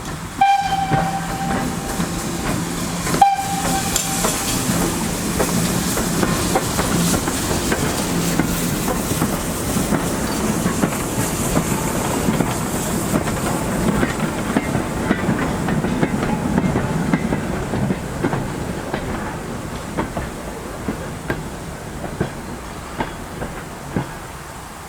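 A GWR steam tank locomotive gives two short whistles, about half a second and three seconds in. The train then runs past steadily with wheels clattering over the rail joints, and the sound fades away over the last several seconds.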